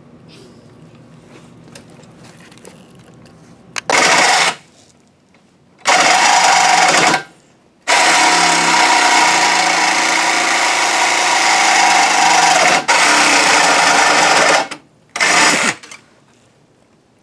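Handheld electric power tool run in a few short bursts and one long run of about seven seconds, with a steady whine inside a loud rasping noise.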